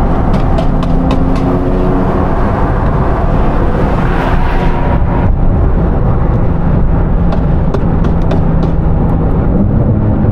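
Sports car engine and road noise at highway speed: a loud, steady engine note over rumble. The note changes about halfway through, and there are scattered sharp crackles.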